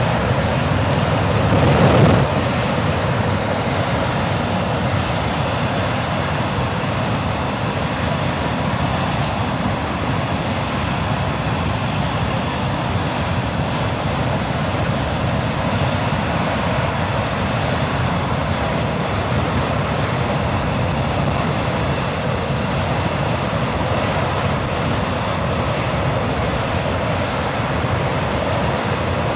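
English Electric Lightning's Rolls-Royce Avon turbojet (No. 1 engine) running steadily during a ground test run, with a brief swell in level about two seconds in.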